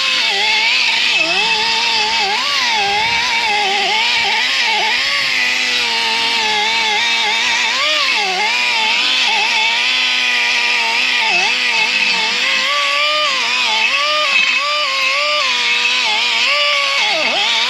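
A small engine or motor running continuously, its pitch wavering up and down as the load changes.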